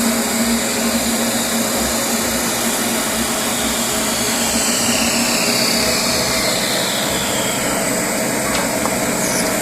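CNC machine for making stoppers and handles, running with a steady loud whirr and hum. A high whine slides down in pitch in the second half.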